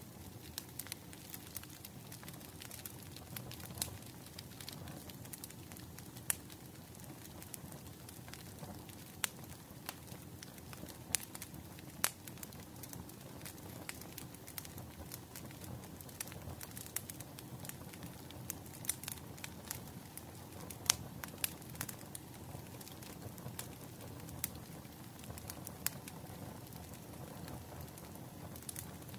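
Wood fire crackling: a steady low hiss and rustle of burning logs with irregular sharp pops and snaps throughout, a few of them louder.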